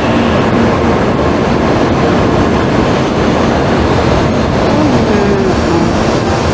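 N700A-series Shinkansen train rolling in alongside the platform at low speed as it comes to its stop: a steady rumble of wheels and running gear as the cars slide past.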